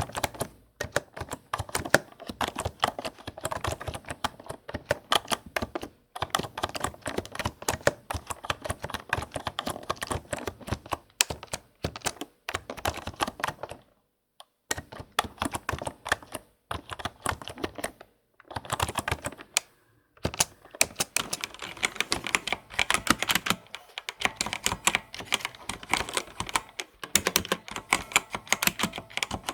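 Fast typing on a computer keyboard: rapid key clicks in long runs, broken by a few short pauses.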